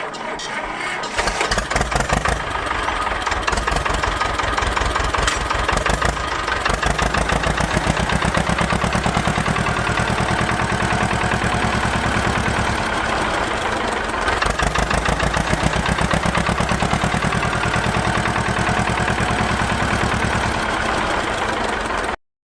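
Small engine of a DIY model mini tractor running, with a fast, even firing beat that quickens slightly about six seconds in; it stops abruptly near the end.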